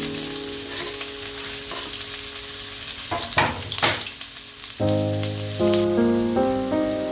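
Food sizzling as it fries in a pan, with two short scraping sounds about three and a half seconds in. Background music with held notes plays under it and gets louder about five seconds in.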